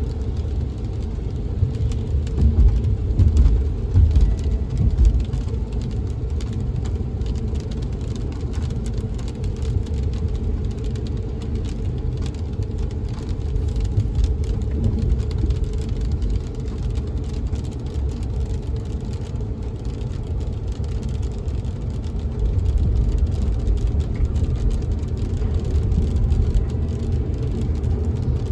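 Car driving in the rain, heard from inside the cabin: a steady low road and engine rumble, with raindrops tapping on the windows. The rumble swells louder briefly a couple of seconds in and again near the end.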